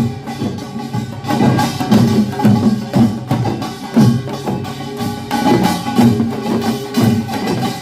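Korean pungmul farmers' band playing: drums and gongs beating a driving rhythm, with strong strokes about once a second over continuous metallic clanging.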